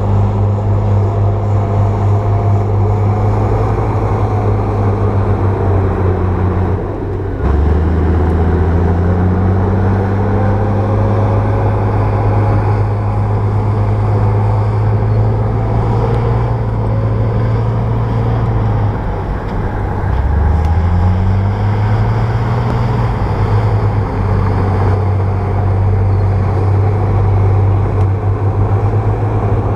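Bulldozer's diesel engine running under load while pushing soil. Its pitch dips twice, about a quarter of the way in and again about two-thirds through, each time climbing back up.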